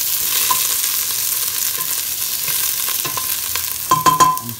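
Sliced onion and ginger sizzling in a stainless steel pot as they are stirred with a wooden utensil. A few sharp knocks come close together near the end.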